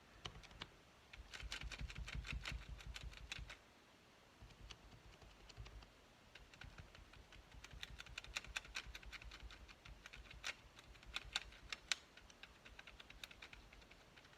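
Quick light tapping and clicking on a craft work surface. There is a dense run of taps for a couple of seconds about a second in, then scattered single taps and clicks.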